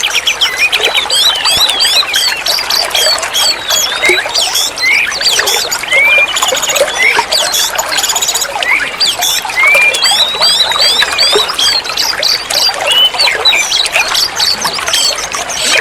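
Oriental magpie-robin (kacer) song: a fast, unbroken stream of varied whistles, slurred rising and falling notes and chattering phrases, dense and loud.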